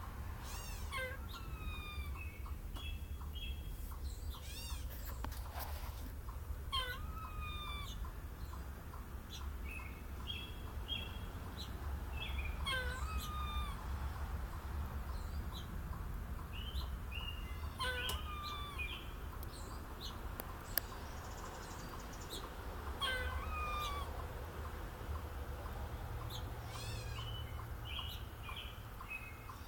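A squirrel calling over and over, a short call with a bending pitch roughly every five to six seconds, with brief high notes in between.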